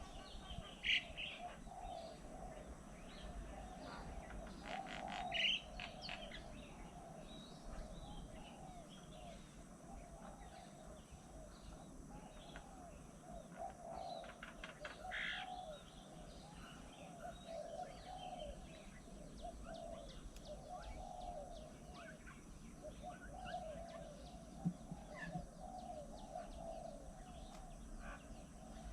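Wild birds calling around a garden bird table: a continuous wavering background of calls, with sharper chirps about a second in, around five seconds in and around fifteen seconds in.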